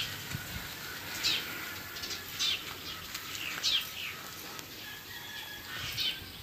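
Small bird calling: a series of short, high chirps that fall in pitch, repeated about once a second.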